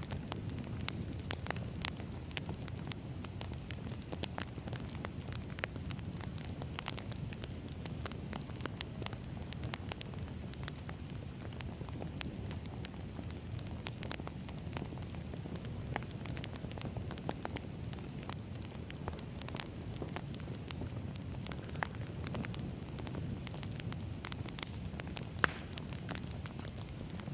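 Burning firewood crackling: a steady low rumble of the fire with irregular sharp pops and snaps throughout, one louder pop near the end.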